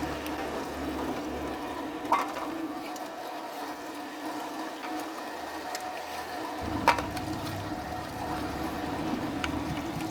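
XZW-22A-2 electric meat mincer running with a steady motor hum, with two sharp knocks about two and seven seconds in.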